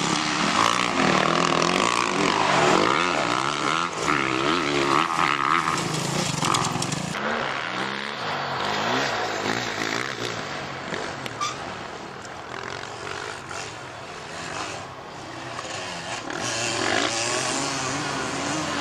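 Dirt bike engines revving and changing pitch as the motorcycles ride the course, the sound shifting abruptly about seven seconds in, easing off in the middle and growing louder again near the end.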